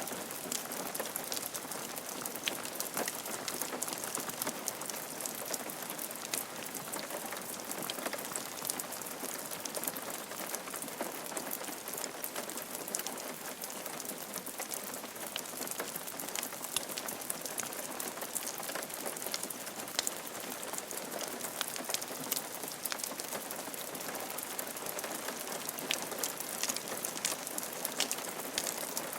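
Steady rain falling on a roof, a continuous hiss with many close, sharp drop impacts ticking through it.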